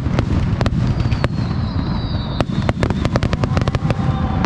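Fireworks display: rapid sharp cracks and bangs over a continuous low rumble of bursting shells, with a faint falling whistle about a second in.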